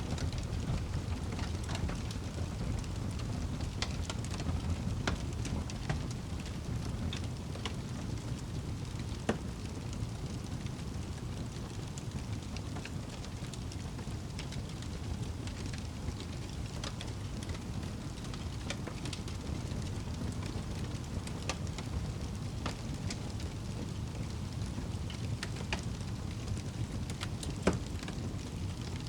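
Wood fire burning in a fireplace: a steady low rumble with irregular sharp crackles and pops, a louder pop about nine seconds in and another near the end.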